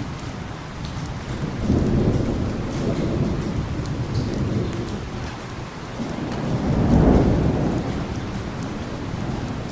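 Steady heavy rain with thunder rumbling twice, a low roll at about two seconds in and a louder one about seven seconds in, fading slowly.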